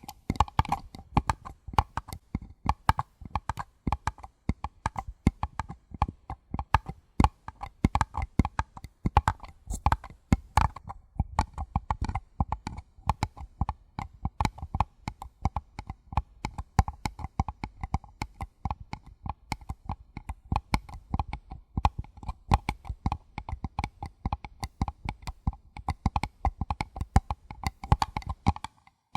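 Fingers tapping rapidly on a paper cup, several quick taps a second, each with the same faint ringing note. The tapping stops near the end.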